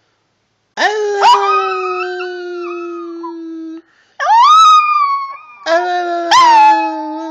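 Chihuahua howling: three drawn-out howls, each starting with a quick rising yip and settling into a long, steady note, the middle one shorter and higher.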